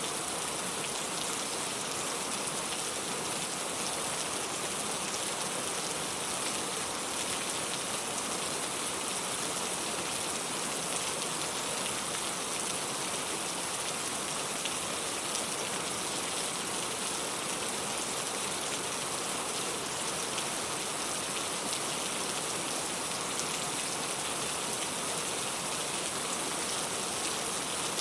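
Steady rain falling: an even, unchanging hiss with faint scattered drop ticks.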